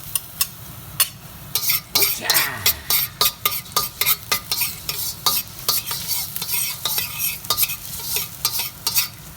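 Garlic sizzling in hot olive oil in a wok while a utensil stirs it, knocking and scraping against the wok several times a second. The garlic is being browned so it flavours the oil.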